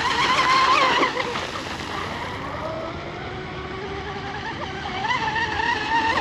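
Whine of an RC hydroplane's water-cooled 3660 brushless motor and propeller running at full throttle, the pitch wavering. It is loudest in the first second, eases off, then swells again about five seconds in.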